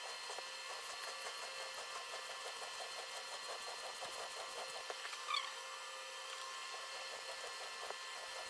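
A steel pocketknife blade scraping in quick, even strokes, several a second, across a wet 400-grit whetstone during the coarse sharpening passes. The strokes break off briefly about five seconds in, when a short high falling chirp is heard.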